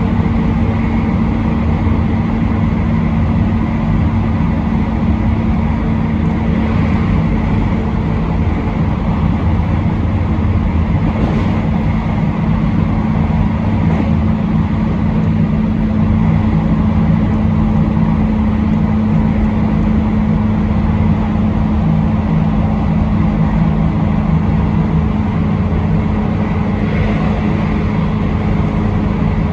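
Train running at speed on the line, heard from the front of the train: a steady rumble of wheels on rail with a constant low hum, and a few faint brief knocks along the way.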